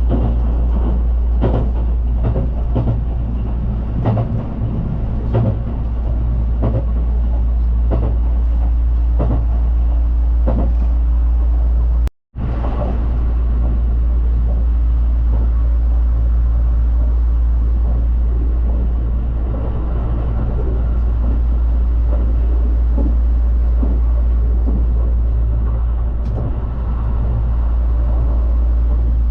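Hello Kitty Haruka limited express train running on the rails: a steady low rumble with many short clacks and knocks, busiest in the first half. The sound cuts out briefly about twelve seconds in.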